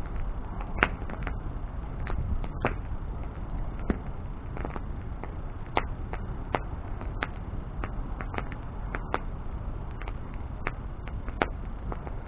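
Wood bonfire crackling: irregular sharp pops and snaps from the burning wood, a few a second, over a low steady rumble.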